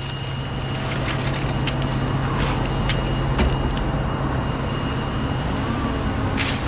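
A steady engine hum with a few light clicks over it.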